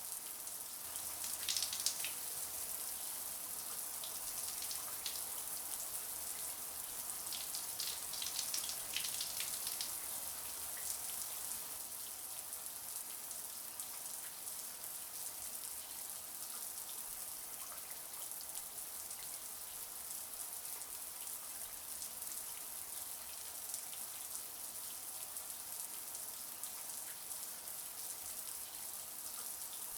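Shower water running steadily: a dense, high hiss of spray spattering, with a few brief brighter splashes about two seconds in and again around eight to ten seconds.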